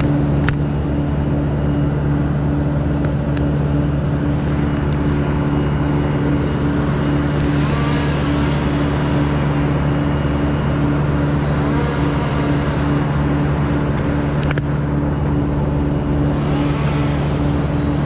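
An engine running steadily at a constant speed, with no change in pitch, and a few faint clicks.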